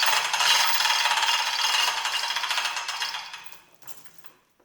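Rapid metallic ratcheting clatter from a ratchet mechanism, dying away about three and a half seconds in.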